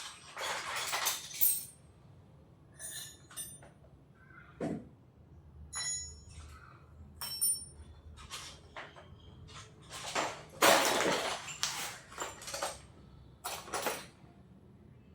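Irregular metallic clinks, knocks and rattles of hand tools and small metal parts being handled while the motorcycle's ignition coil is unbolted. Some clinks ring briefly, and a louder run of rattling comes about ten seconds in.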